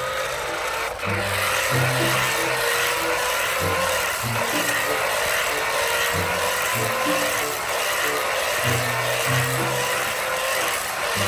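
A toy RC vehicle's small electric motor and plastic gears run with a rasping whir and a faint whine that rises slowly in pitch. Background music with low bass notes plays underneath.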